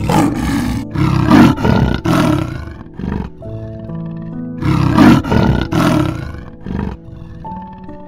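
A big cat roaring in two bouts of several short, rough roars, the first starting right away and the second about halfway through, over background music.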